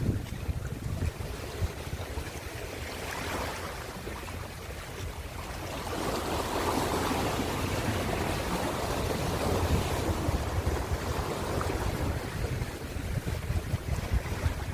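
Ocean waves breaking and washing in, one surge about three seconds in and a longer, louder wash from about six to eleven seconds, with wind rumbling on the microphone throughout.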